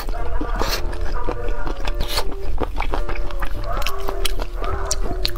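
Close-miked wet chewing and sucking of sauced chicken feet, with frequent sharp smacks and clicks of lips and tongue. Background music with held melody notes runs underneath.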